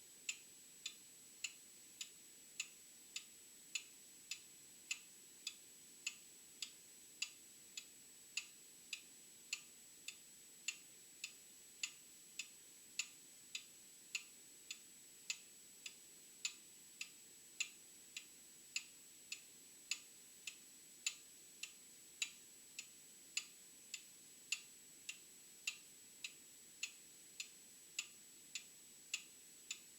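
Old mechanical clock ticking steadily, a little over two ticks a second, some ticks louder than others.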